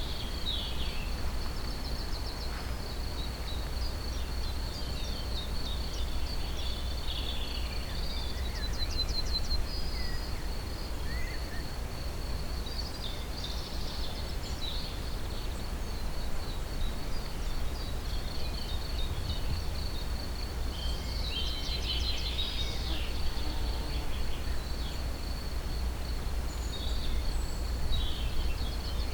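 Songbirds singing and calling in short chirps and trills, busiest twice, over a steady high-pitched whine and a constant low rumble.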